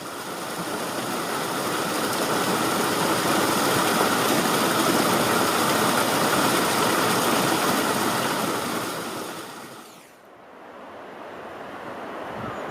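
A loud, even rushing noise that swells over several seconds and then eases. About ten seconds in its hiss cuts off abruptly, leaving a quieter, softer rush.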